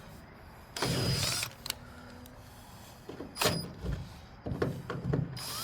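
Electric drill run in two short bursts, drilling into steel, with a few clicks between.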